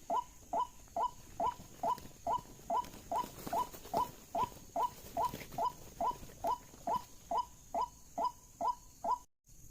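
White-breasted waterhen call played through a loudspeaker as a lure: one short, slightly falling note repeated steadily about twice a second, cut off abruptly near the end.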